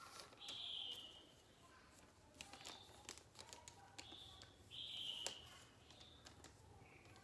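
Faint rustling and creasing of a paper sheet being folded into a paper airplane: soft taps and clicks, with two brief hissing strokes near the start and about five seconds in.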